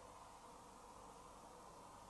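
Near silence: a faint, steady hum from a Hoover H-Wash & Dry 500 washer dryer on its pre-wash cycle, with no drum movement.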